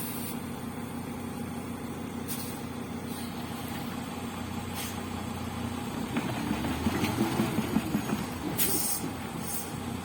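Truck engine running steadily, then revved about six seconds in, its pitch wavering up and down as the wheels slip on wood instead of gripping. A few short sharp ticks are heard over it.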